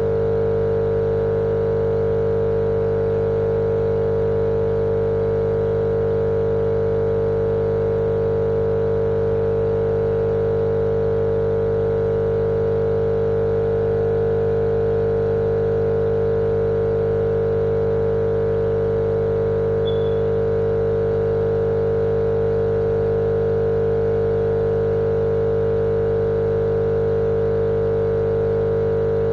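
Steady electric motor hum with a strong held tone over an even hiss, running without any change, used as continuous white noise to lull a baby to sleep.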